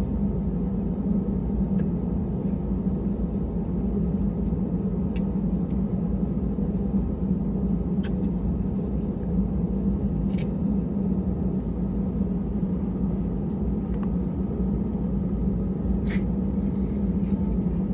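Steady low rumble and hum inside an Airbus A320 airliner's passenger cabin on the ground before takeoff, with a few short, sharp clicks now and then, the loudest about ten seconds in and again near the end.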